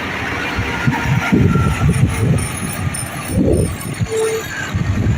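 Heavy vehicle engine running with an uneven low rumble, and one short beep about four seconds in.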